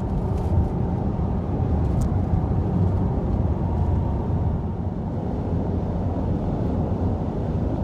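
Steady rumble of a car driving on the road, the low road and engine noise holding even throughout.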